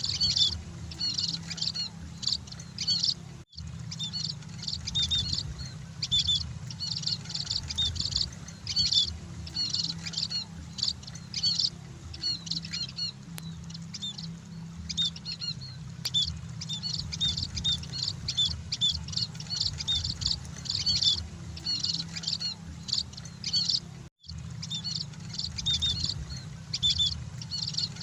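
Emprit (munias) chirping continuously, many short high chirps overlapping as from a flock, over a low steady hum. The sound drops out for an instant twice, about three seconds in and near the end.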